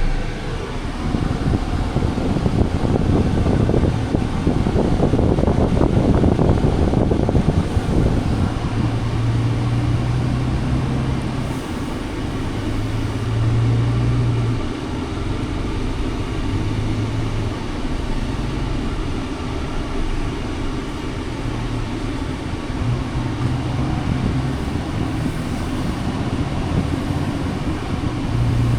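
Scania R500 heavy truck running, a steady loud vehicle noise with a low engine drone that swells and fades in steps over the second half.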